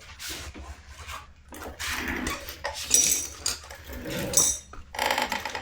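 Clattering and clinking of tools and containers being handled and set down, a run of irregular knocks and clicks, loudest about three seconds in, as a bottle of two-stroke oil is got ready to pour into the engine.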